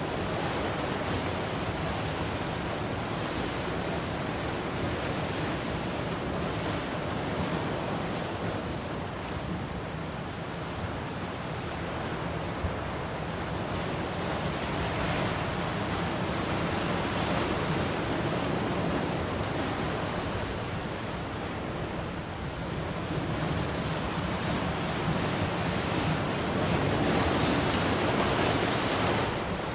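Ocean surf: waves breaking and washing up the shore in a continuous rush of noise that swells and eases over several seconds, strongest near the end.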